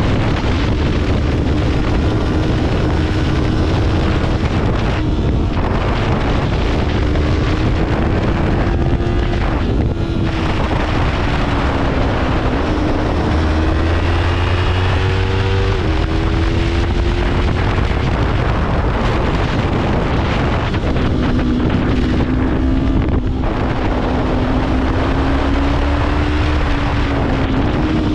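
Yamaha YZF-R3's 321 cc parallel-twin engine running hard through the gears, its pitch rising and falling with a few sudden jumps, under loud wind rush on the microphone.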